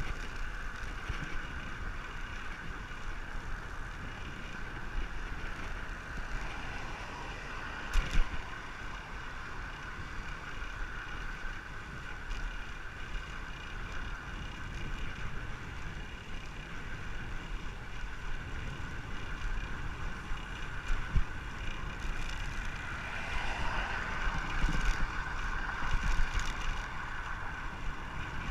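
Wind rumbling on the microphone of a cyclist riding along the road, under a steady high hum. There is one sharp knock about eight seconds in, and the hum grows louder for a few seconds near the end.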